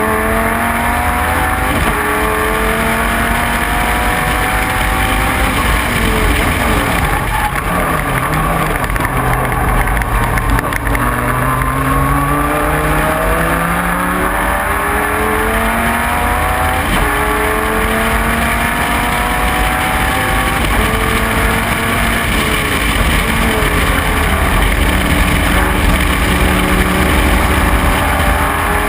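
Dodge Viper race car's V10 engine at full racing effort, its pitch climbing through the gears with a drop at each upshift. Around a third of the way in, the revs fall to a low pitch through a slow corner, then climb again through repeated upshifts.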